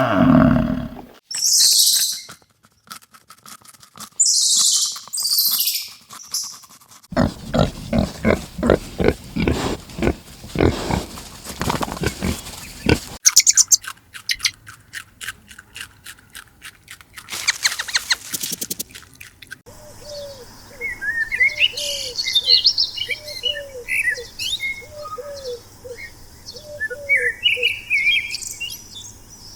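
A run of different animal sounds in turn, changing every few seconds, ending with about ten seconds of birds calling: a short falling call repeated roughly every second, with scattered higher chirps.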